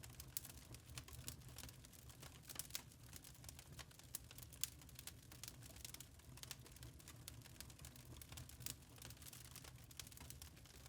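Wood fire in a fireplace crackling faintly, with many small irregular snaps and a few louder pops, over a low steady rumble.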